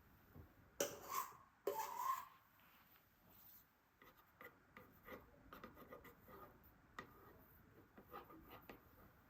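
A cake-decorating tool scraping frosting: two short, loud scraping strokes about a second apart, then a run of small scrapes and taps.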